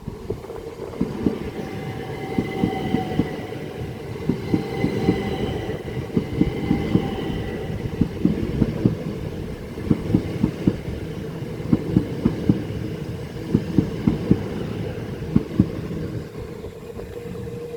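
Southeastern Class 375 Electrostar electric multiple units passing at low speed over the junction crossover. The wheels clatter over the rail joints and points in a run of sharp knocks in quick clusters, over a steady rumble, with a faint whine in the first half.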